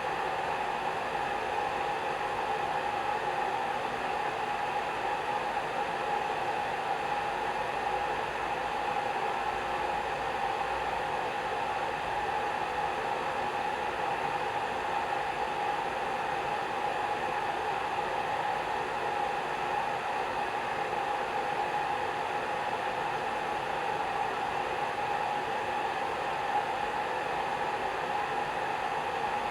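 Hair dryer running steadily: an even rushing of air with a constant motor hum, with no change in speed.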